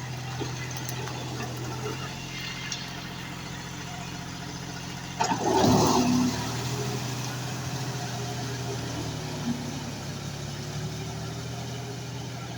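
John Deere 5105 tractor's three-cylinder diesel engine running steadily, with a loud, short rush of noise about five seconds in.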